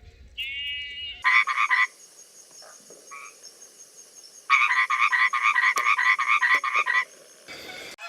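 An animal call made of rapid, evenly repeated pulses: a short burst about a second in, then a longer run lasting about two and a half seconds past the middle, with a brief higher-pitched note at the very start.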